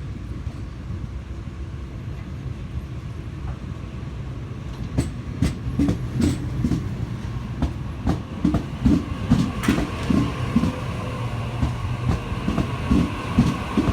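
Sydney Trains Waratah (A set) electric train moving along the platform with a low rumble. From about five seconds in, its wheels clatter over rail joints, about three knocks a second.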